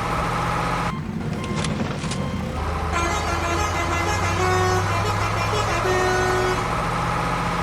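Cartoon vehicle engine sound effect running with a steady low drone. About a second in there is a short break with two sharp clicks, then held horn-like tooting tones over the engine.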